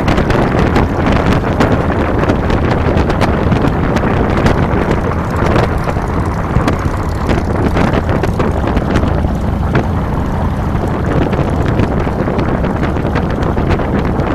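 Wind buffeting the microphone of a handlebar-mounted camera over the steady low rumble of a 2007 Harley-Davidson Fat Boy's V-twin engine under way.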